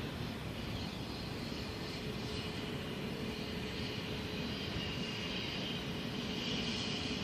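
Freight train cars rolling past, a steady rumble of wheels on rail with a faint steady tone.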